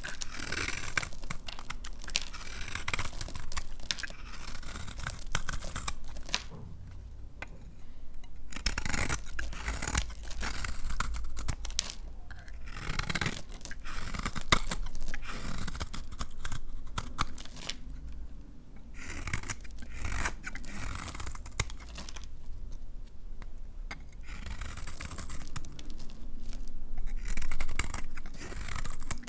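A knife cutting through dry laundry soap bars: dense runs of fine scraping, crunching and crumbling, broken by a few short pauses between cuts.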